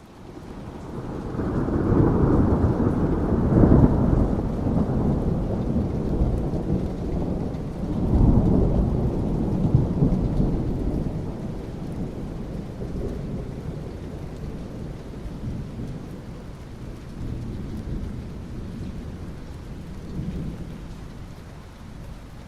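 Rolling thunder over steady rain. The rumble swells in the first few seconds, rises again about eight seconds in, then slowly fades while the rain hiss carries on.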